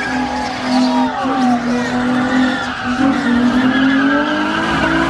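Car spinning donuts: engine held at high revs, pitch rising slightly about three seconds in, with the tyres squealing continuously against the pavement.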